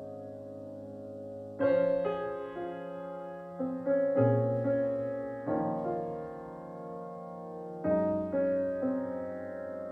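Music: slow piano-type keyboard chords, each struck sharply and left to ring and fade, a new chord every second or two.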